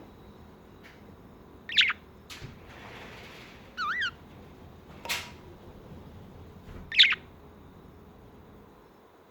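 Budgerigar chirping: four short, separate chirps over several seconds, one warbled about four seconds in, the loudest near the end.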